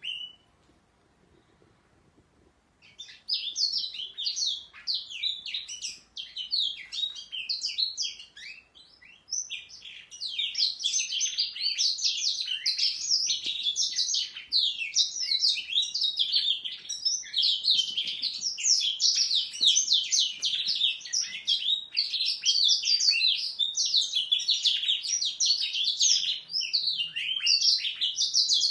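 A domestic canary and a young black-throated canary singing, in long runs of rapid, high trilling and chattering notes. The song starts about three seconds in, comes in broken phrases at first, then runs on without pause from about ten seconds in.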